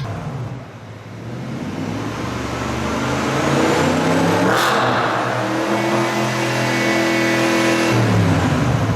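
BMW 645Ci's V8 running through a loud custom exhaust that is not straight-piped, revving under acceleration. The pitch dips at first, then climbs for several seconds, breaks sharply about halfway, holds a higher steady note, and drops again near the end.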